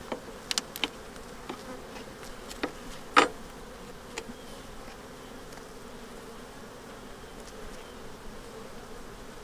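Honeybees buzzing steadily around an open hive, with a few brief knocks, the loudest about three seconds in.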